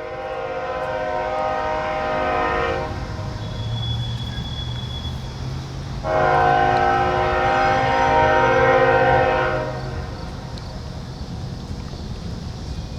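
Freight locomotive air horn on a CSX train sounding two long blasts, the second louder and slightly longer, with a low steady rumble from the train underneath.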